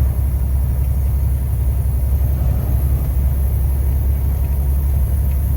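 Steady low rumble of a truck's diesel engine and road noise heard from inside the cab while driving.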